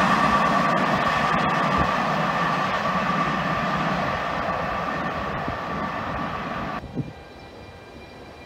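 Freight train rolling away over the rails, its wheels and wagons making a steady rumble with a high ringing tone, slowly fading. About seven seconds in it cuts off abruptly to faint background.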